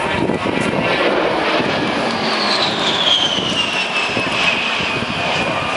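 A-10 Thunderbolt II's twin TF34 turbofan engines as the jet flies past, with a loud engine noise and a high whine that falls in pitch from about two seconds in as it goes by.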